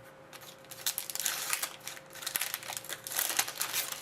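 Crinkling of sports card packaging being handled, in irregular rustling bursts that start about two-thirds of a second in and run on until near the end.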